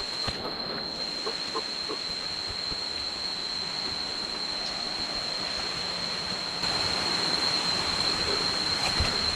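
Cicadas droning on one steady high pitch over a constant rushing hiss. The hiss grows louder about two-thirds of the way through.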